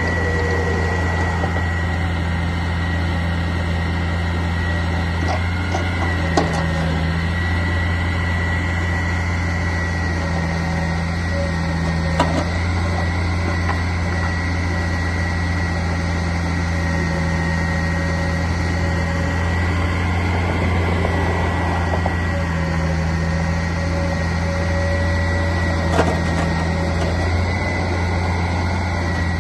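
Garbage truck engine running steadily, a constant low hum with a thin high whine above it and a few sharp clicks along the way.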